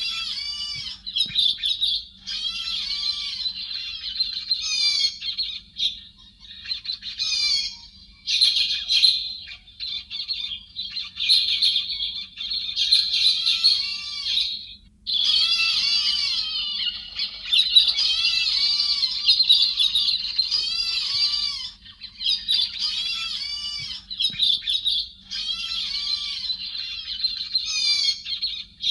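Héc xoan birds calling in a dense run of quick chattering notes that rise and fall, with short pauses about six, eight and fifteen seconds in. A faint steady low hum sits underneath.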